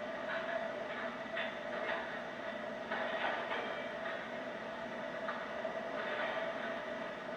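MTH R1 subway model train running on its track: a steady mid-pitched hum from the motors and sound system, with irregular rushes of wheel and track rattle every second or so.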